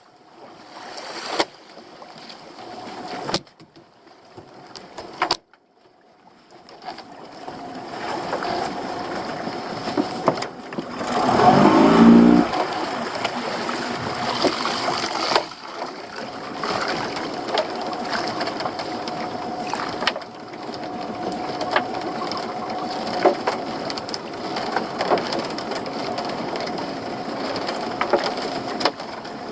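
A boat's motor running steadily with a constant hum, over noise. A loud short sweep in pitch comes about eleven seconds in.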